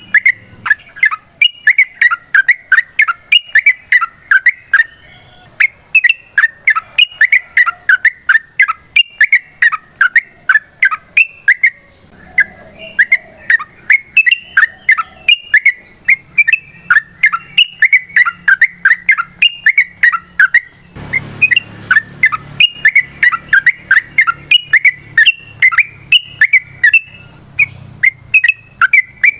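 Yellow-vented bulbul (trucukan) singing a long, unbroken chattering song: quick bubbly chirps several times a second, the continuous 'ropel' style kept birds are prized for. A short burst of noise cuts in about two-thirds of the way through.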